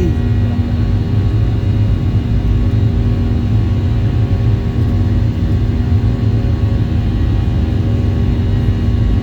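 Boeing 737-800's CFM56 jet engines running steadily, a loud low rumble with several steady humming tones over it, heard from inside the passenger cabin.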